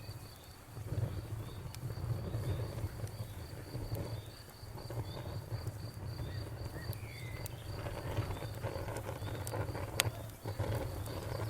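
Crickets chirping in a steady, evenly pulsed trill over the low rumble of a wood bonfire, with scattered pops and crackles and one sharp crack about ten seconds in.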